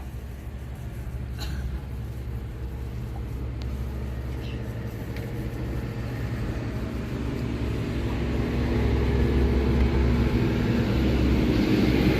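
An engine running with a steady low hum, growing louder toward the end.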